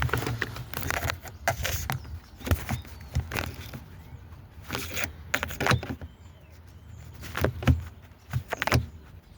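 Irregular small plastic and metal clicks and knocks as the plastic injector leak-off return connectors are wobbled and levered off a Mercedes V6 diesel's injectors.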